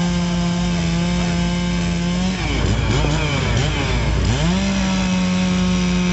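Small gasoline engine running steadily at high speed. A little over two seconds in, its pitch sags and recovers several times as it is loaded, then settles back to the same steady tone.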